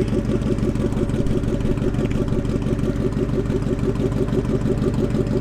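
A drag car's engine idling with a steady, fast pulsing rhythm.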